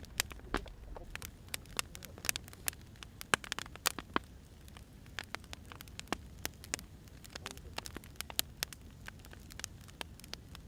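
Firewood burning, crackling and popping in quick, irregular snaps over a low, steady rumble of the fire.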